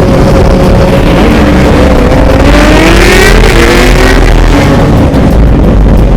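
Several motorcycle engines running together, with one revving up, its pitch rising about two and a half seconds in, over a steady low rumble.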